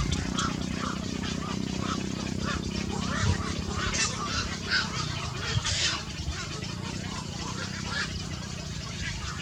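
Small pet birds chirping in a run of short, repeated calls, roughly two a second, over a low steady hum that drops away about six seconds in.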